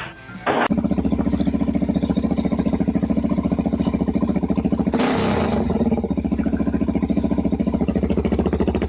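Cat purring close to the microphone: a steady, fast-pulsing low rumble, with a breathier, raspier stretch about five seconds in.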